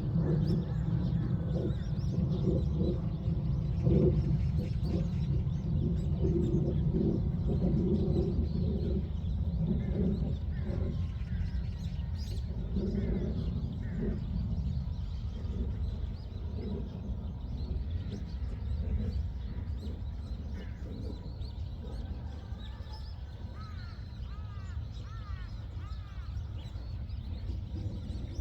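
Birds calling over a steady low rumble: low, repeated cooing-like notes through the first half, then a run of short chirps near the end.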